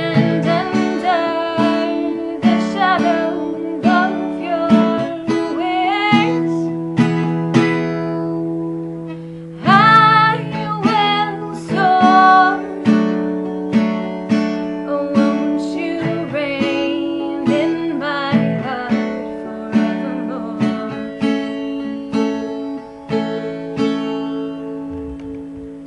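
Acoustic guitar strumming and picking chords to close a song, with a last chord ringing and dying away near the end.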